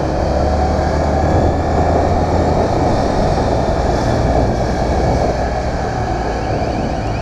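Honda motorcycle's engine running steadily while being ridden, with road noise.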